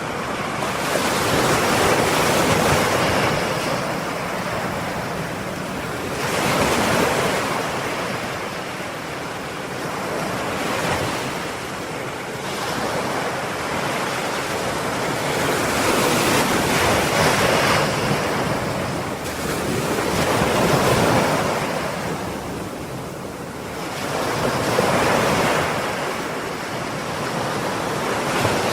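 Ocean waves breaking and washing on the shore, the surf swelling and ebbing in a surge every four to five seconds.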